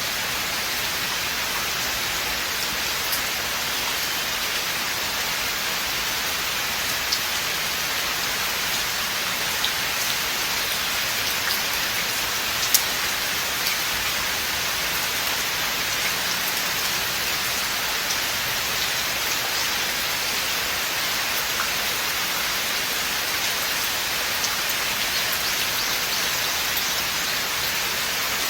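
Steady rain falling through forest, an even hiss with scattered individual drops ticking close by; one sharper drop stands out about halfway through.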